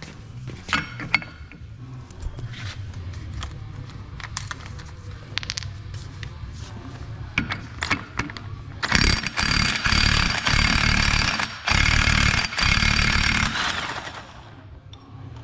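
A few metal clinks as a socket is fitted, then about nine seconds in an impact wrench hammers on a 30 mm ATV rear axle nut in three loud bursts lasting some five seconds altogether.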